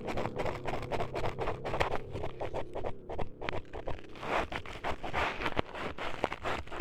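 Close-up scratching and scraping on an ASMR microphone, a dense run of sharp clicks and rasps with a few louder swishes past the middle, staged to sound like ears being cut up.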